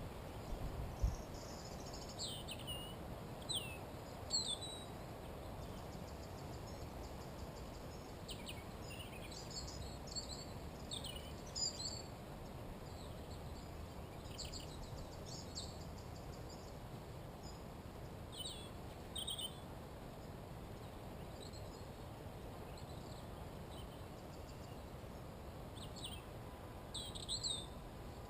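Wild songbirds calling in short high chirps and brief phrases, coming in scattered bouts over a steady low background hiss and rumble.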